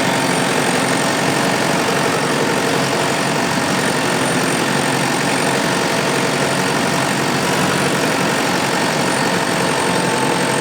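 Diesel SUV engine running steadily, with a dense even noise and no revving up or down.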